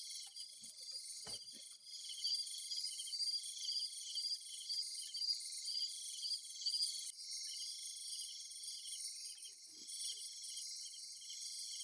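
Chorus of crickets and other insects: a steady high trill with repeated pulsed calls layered over it, and a few faint knocks.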